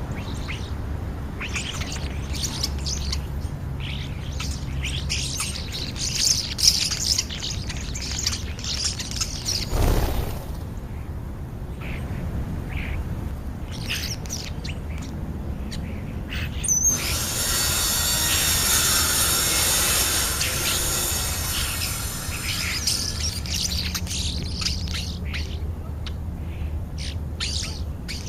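Birds chirping and calling in many short, high notes, with a steady hiss rising for a few seconds about two-thirds of the way through.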